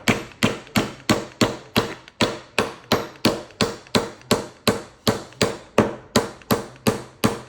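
Hammer driving a nail into a wooden board with quick, hard, evenly spaced blows, about three a second.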